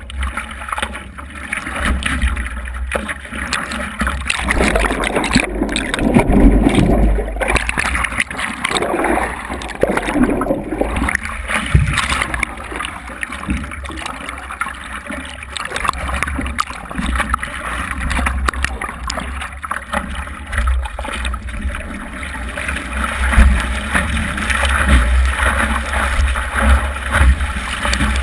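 Wind buffeting the microphone in gusts, a rough rumbling noise that swells and eases.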